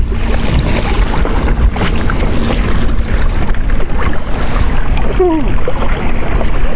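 Loud, steady wind buffeting the microphone out on open water from a kayak, with water noise under it. A brief voice is heard about five seconds in.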